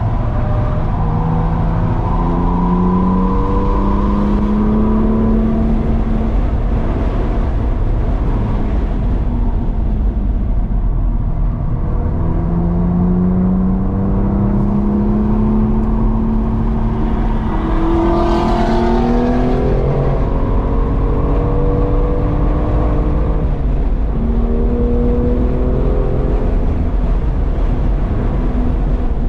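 Car engine heard from inside the cabin, accelerating hard on a race track: its pitch climbs and drops back several times as it shifts up and the driver lifts and gets back on the throttle, over steady road and wind noise. A brief louder rush of noise comes about two-thirds of the way through.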